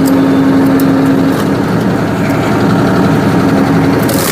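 Tractor engine running steadily while driving a hydraulic log splitter, with a steady humming tone over it that stops about a second in. A sharp noise comes near the end.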